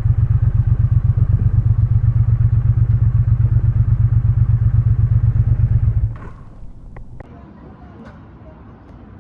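Triumph Bonneville parallel-twin motorcycle engine running steadily with a fast, even pulse, then switched off about six seconds in, followed by a couple of light clicks.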